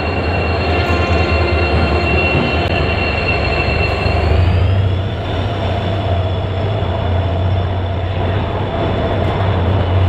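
Train rolling past with a steady deep rumble and a thin, high wheel squeal. The squeal steps up in pitch about four seconds in.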